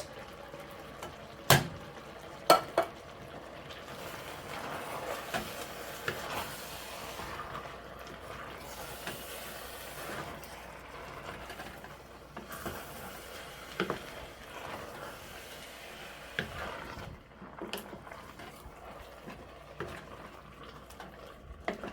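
Two sharp knocks against a cooking pot, then vegetables being stirred in the pan with a utensil, with a light sizzle and scattered small clinks as diced tomatoes are added.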